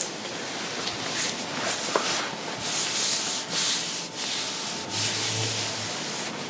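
Fabric rubbing against fabric in a series of brushing strokes, about two a second.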